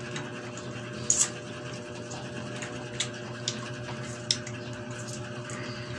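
Mouth sounds of pineapple being chewed: a few short wet clicks and smacks, one of the strongest about a second in, over a steady low electrical hum.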